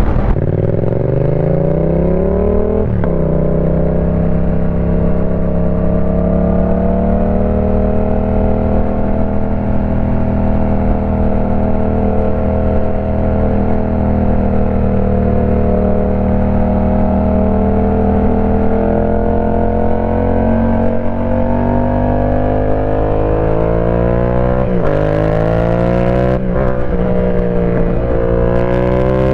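Yamaha Tracer 700's parallel-twin engine running through a TEC aftermarket full exhaust, under way. The revs climb over the first few seconds with a brief dip about three seconds in, then hold steady for a long stretch. They build slowly again and rise in quick steps with short dips near the end, like upshifts.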